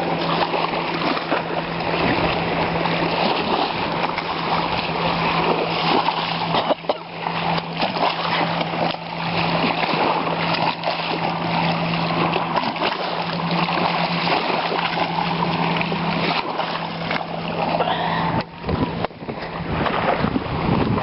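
Wind buffeting the microphone beside a lake, with waves splashing, and a steady low hum underneath.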